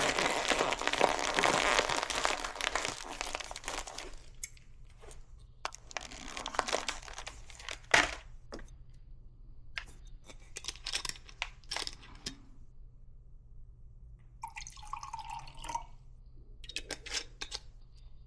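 Crinkling and crunching for about the first four seconds, then scattered clicks, taps and short rustles, as coffee-making gear and its packaging are handled.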